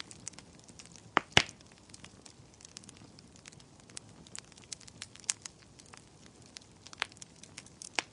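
Wood fire crackling in a fireplace: a low hiss under irregular snaps, with two loud pops close together a little over a second in and two more sharp pops near the end.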